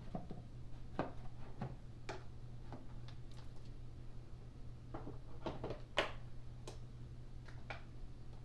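Scattered light clicks and taps, a dozen or so at uneven intervals, over a faint steady low hum: handling noise of a vacuum cleaner before it is switched on.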